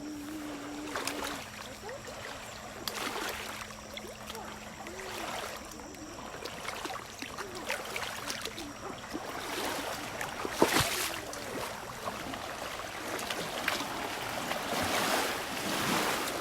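Lake water splashing and lapping in irregular surges, with a sharp click about ten seconds in.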